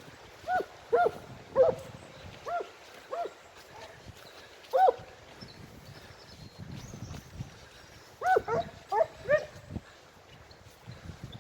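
Segugio scent hounds giving tongue on a trail: short, high yelping bays, a string of single calls and then a quick cluster of several near the end.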